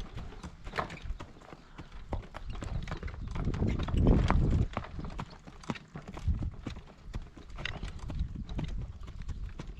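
A horse's hooves clopping at a walk, with gusty wind buffeting the microphone and swelling about four seconds in.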